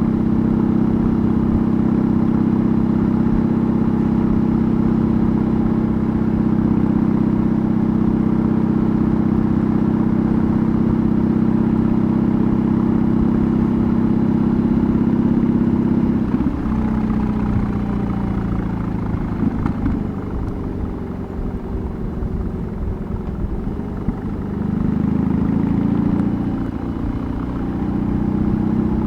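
BMW R18's big 1,802 cc boxer twin running under way, its exhaust note holding steady at an even speed for about the first half. The note then drops and quietens as the throttle eases off, and rises again a few seconds before the end as it picks up speed.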